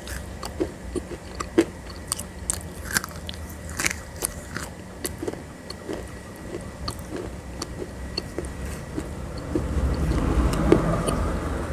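Crunchy biting and chewing of a thick roasted paste, with many sharp crackling clicks scattered throughout. A spoon scraping and scooping through the paste grows louder for a couple of seconds near the end.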